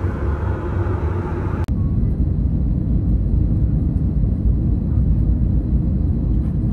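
Steady low rumble of an Airbus A321neo's cabin in flight. A lighter hiss on top cuts off abruptly about a second and a half in, leaving the deep rumble.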